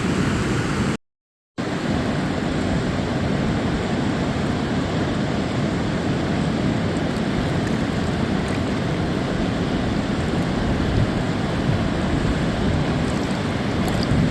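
Steady rushing of a river, heavy in the low range. The sound cuts out completely for about half a second about a second in.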